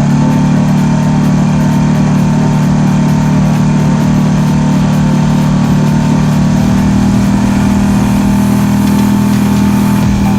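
Marlin 5 hp four-stroke outboard motor running at high throttle, driving the boat toward planing. It is a loud, steady engine drone whose tone shifts a little about two-thirds of the way through.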